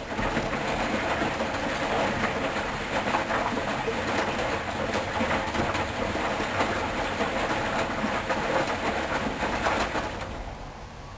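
Hoover washing machine drum turning during the wash, laundry and water sloshing and tumbling with a busy clatter, which winds down and stops about ten seconds in.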